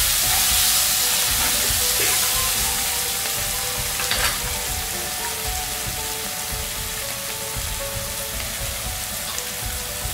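Onion, tomato and spice masala sizzling in hot oil in a nonstick kadai, the hiss slowly easing off. It is stirred with a wooden spatula at first, and there is a single short knock about four seconds in.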